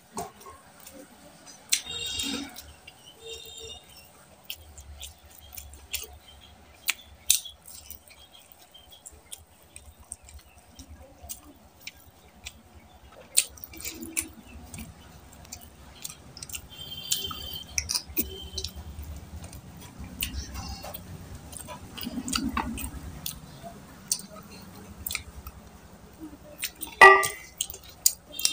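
Close-miked eating by hand: chewing and lip-smacking on mutton curry and rice, with many small wet clicks as fingers mix rice on a steel plate. A louder wet mouth sound comes near the end.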